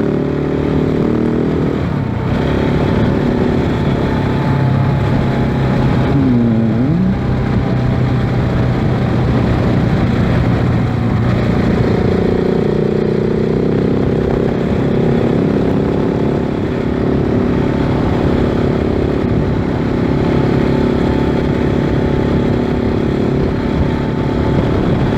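KTM 690 Enduro R's single-cylinder engine through an FMF slip-on exhaust, under way on the road, its pitch shifting a few times with throttle and gear changes. Wind noise buffets the microphone.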